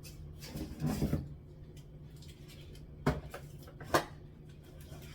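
Food containers being set down on a kitchen cupboard shelf: a few light knocks about a second in, then two sharper knocks about three and four seconds in.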